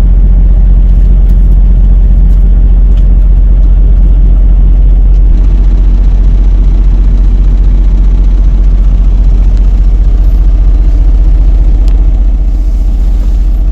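Truck diesel engine running steadily, a deep low rumble.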